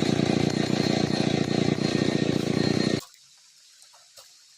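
Stihl 070 two-stroke chainsaw running loudly and steadily, cutting off abruptly about three seconds in to near silence.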